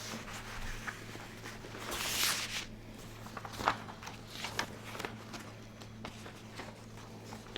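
Footsteps with scattered light knocks and a brief rustle about two seconds in, over a steady low hum.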